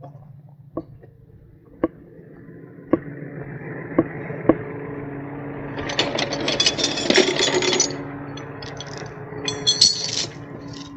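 Metal hooks and chain clinking and rattling, densest about six to eight seconds in, with scattered single clicks, over a steady engine running that grows louder after about two seconds.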